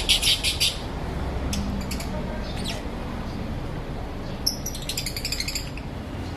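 Lovebirds chirping: a rapid run of shrill chirps at the start and another about four and a half seconds in, with a few single chirps between, over a steady low background noise.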